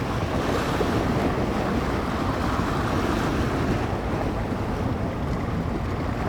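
Bay waves breaking and washing steadily against the shore, with strong wind buffeting the microphone and adding a deep rumble.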